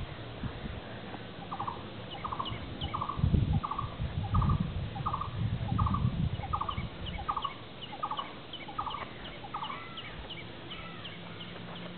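A bird calling over and over, each call a short rapid trill repeated about twice a second, while other small birds chirp higher. Low rumbling bumps come and go in the middle.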